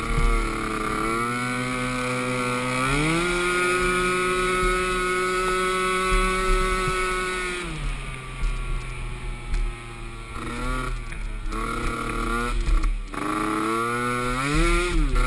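Small youth ATV engine being ridden: it revs up and holds a steady higher pitch for a few seconds, then drops back, and rises and falls again near the end.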